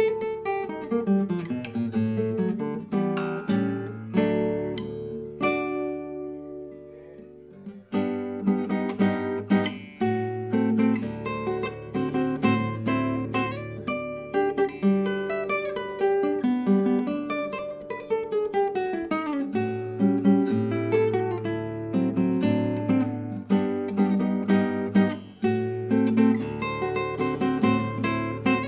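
Acoustic guitar music, plucked and strummed with a moving bass line; partway through the notes are left to ring and fade before the playing picks up again.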